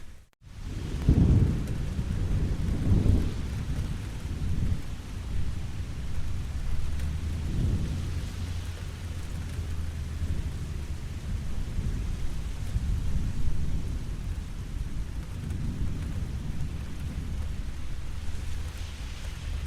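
Steady rain with low rolling thunder swelling several times, loudest about a second in and again near three seconds. The sound cuts out for a split second at the very start.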